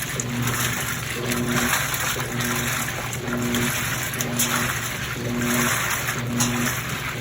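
Midea 13 kg washing machine agitating the load during the rinse: the motor hums in short strokes about once a second while water sloshes and swishes in the drum.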